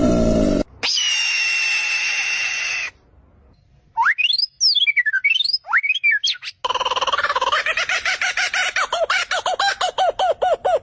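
Bird calls in separate clips cut hard against each other. First a steady held whistle, then a few fast whistled sweeps rising and falling, then a rapid run of short repeated chirps, about ten a second.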